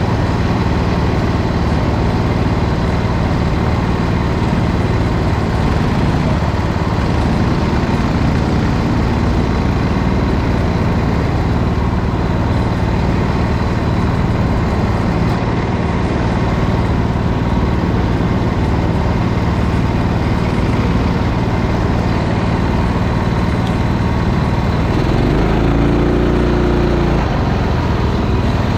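Racing kart's small engine running steadily at speed, loud and continuous, with a brief change in engine note about twenty-five seconds in.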